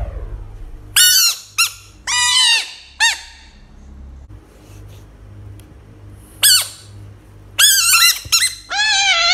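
Bullfrogs giving shrill, squeaky screaming cries, each arching up and falling in pitch. A few cries come early, then one alone, then a quick run of them near the end as the frogs lunge.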